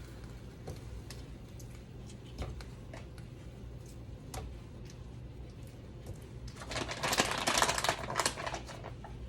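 Small clicks and taps of hands peeling raw shrimp and pulling off the tails, with a louder crinkling rustle from about six and a half to eight and a half seconds in.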